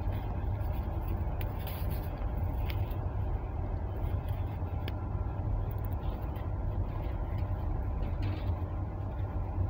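Steady low rumble of a moving passenger train heard from inside the carriage. A few soft rustles of kraft paper come from a tea package being handled.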